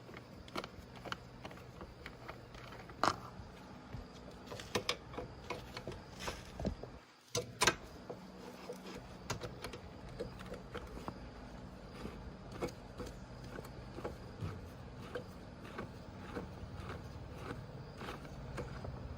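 Scattered metallic clicks and knocks of hand tools at work on a motorbike, the sharpest about three seconds in and again near eight seconds, over a steady low hum.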